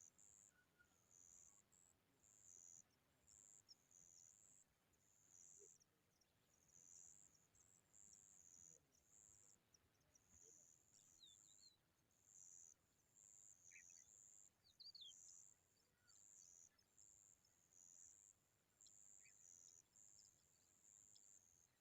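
Faint, high-pitched insect chirping in short pulses, about one to two a second. A few faint bird chirps come in about halfway through.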